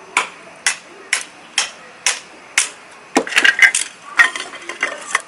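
Knife being batoned down through a stick of hinoki (Japanese cypress) for kindling: six sharp wooden strikes about half a second apart, then a quicker run of knocks and cracks as the softwood splits.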